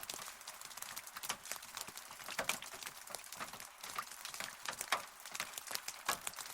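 Rain falling, with many separate drops tapping irregularly and close on a hard surface over a steady patter.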